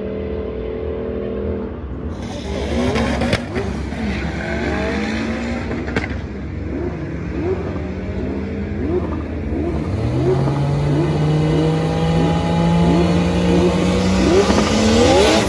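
Engines revving in a drag strip's staging lanes: one blips its throttle over and over, about two short rising revs a second, while from about ten seconds in another holds a steady raised rev that climbs near the end.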